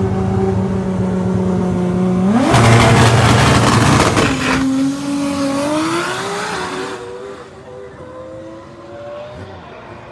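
Drag race car engine held at a steady pitch on the starting line, then launching about two seconds in with a loud burst of full-throttle engine noise. The engine pitch then climbs through the gear changes as the car pulls away, and the sound fades after about seven seconds.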